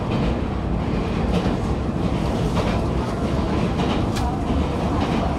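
Passenger train running, heard from inside the carriage: a steady low rumble of the wheels on the track, with a few faint clacks.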